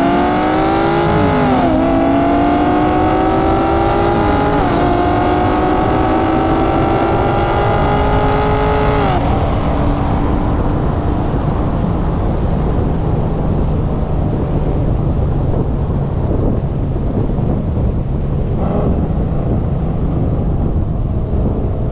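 A car engine at full throttle in a highway pull, its pitch climbing through the gears with quick upshifts about a second and a half and four and a half seconds in. The climb ends about nine seconds in, leaving a steady rush of wind and road noise.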